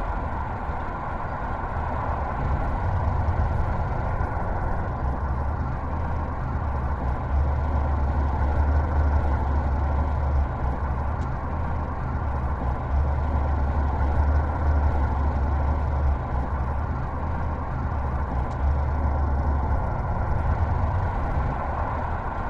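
Truck engine running under load on an uphill climb, a steady low drone that swells and eases every few seconds. The owner complains that the new truck has no power for the hill.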